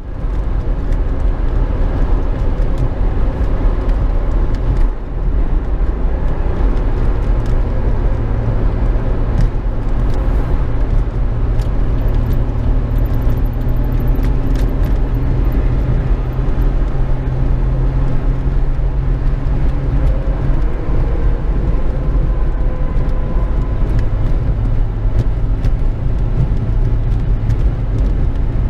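Steady low rumble of vehicle engine and road noise from a vehicle driving on the highway.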